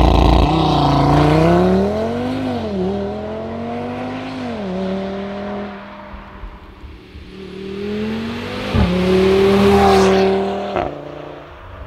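Audi TT RS's turbocharged five-cylinder engine under full throttle from a launch-control start. The revs climb and the pitch drops sharply at each quick upshift, and near the end the throttle closes abruptly.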